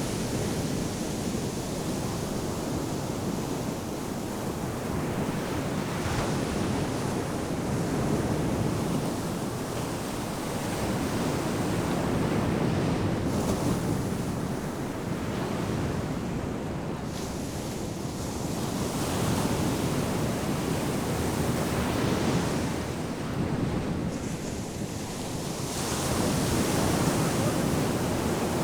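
Ocean surf breaking and washing up the beach: a continuous rushing that swells and eases every several seconds as successive waves come in.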